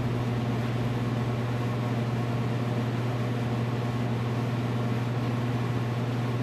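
Electric shop fan running: a steady low hum under an even rush of air.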